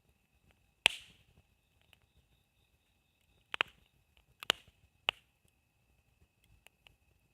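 Campfire wood burning, with sharp pops and crackles: one loud pop about a second in, then three more in quick succession a little later, and small ticks between them. A faint steady high tone runs underneath.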